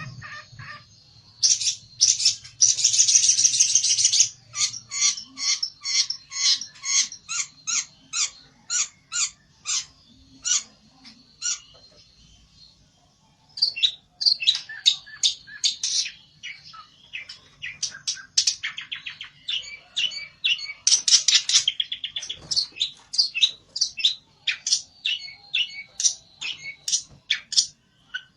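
Pelentet (long-tailed shrike) singing in an agitated, challenging run of short sharp notes, about three or four a second, broken by harsh rasping bursts. It falls quiet briefly near the middle, then starts again.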